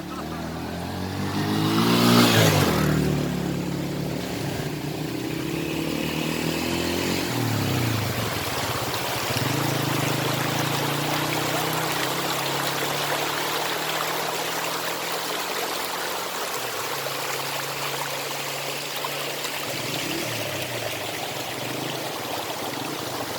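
A motor vehicle passes close by about two seconds in, its engine pitch rising and then falling. After it, a steady low engine hum continues over a constant rushing noise.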